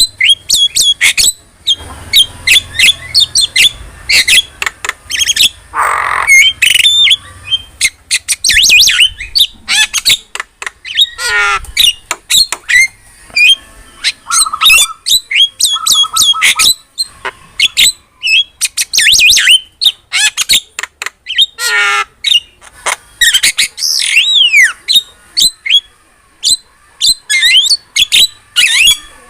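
Javan myna (jalak kebo) singing a fast, varied string of short whistles, squawks and chattering calls, with a few harsher warbling calls that slide downward. It is a vigorous full song used as a masteran to tutor caged birds.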